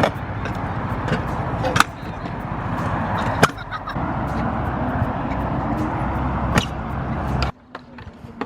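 Stunt scooter wheels rolling over concrete, a continuous rough rumble broken by four sharp clacks of the scooter hitting the ground. The rolling noise cuts off suddenly near the end.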